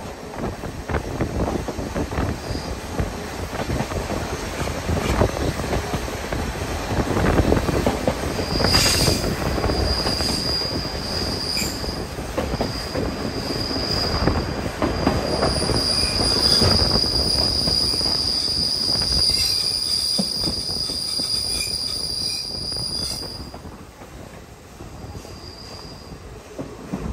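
Passenger coach of a steam-hauled train running on the rails, heard from inside the coach: a steady rumble and clatter of the wheels. A high steady wheel squeal comes and goes from about a third of the way in, holds for several seconds, then stops shortly before the end. The running noise grows quieter after the squeal stops.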